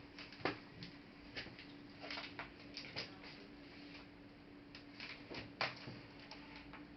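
Light, irregular clicks and taps of a laptop's plastic and metal parts being handled and worked with small tools during disassembly, about a dozen in all, over a faint steady hum.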